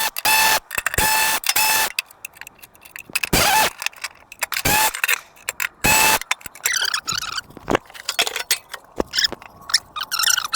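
A power tool spinning a 15 mm socket in short bursts, each about a third of a second with a steady whine, as it backs out bolts. In the second half, quicker metallic clicking and rattling of the socket and loosened bolts.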